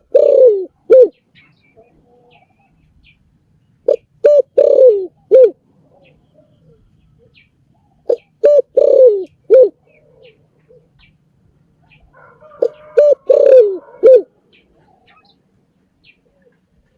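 Spotted dove cooing: a repeated phrase of a few short coos ending in one longer, falling coo, given four times at intervals of about four seconds.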